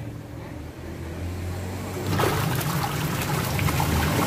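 Washing machine running with water splashing in its tub over a steady low motor hum; the water noise grows louder about two seconds in.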